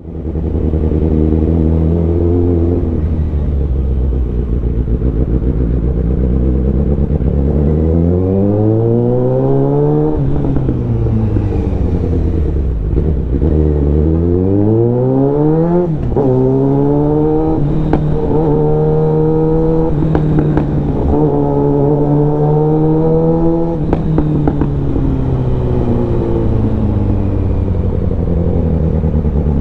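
Suzuki Bandit 650N inline-four motorcycle engine running through a full aftermarket exhaust. It holds a steady note, then the revs climb twice, dropping sharply after the second climb, and the note holds steady again before easing down near the end.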